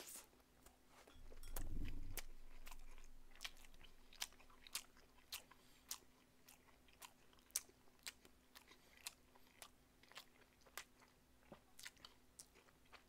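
Faint close-miked chewing of a bite of rice cake (tteok) from a sotteok-sotteok skewer: wet mouth clicks at about two a second, with a low rumble about two seconds in.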